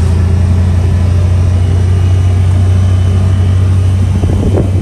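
Honda Pioneer 1000 side-by-side's engine running at a steady speed on the trail: a constant low drone that does not change pitch.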